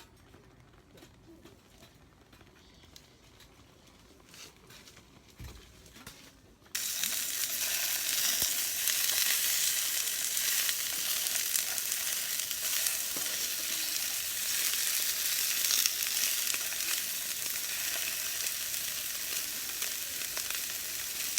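Food sizzling as it fries, a steady hiss that cuts in abruptly about a third of the way in and keeps going; before it, only a quiet stretch with a few faint knocks.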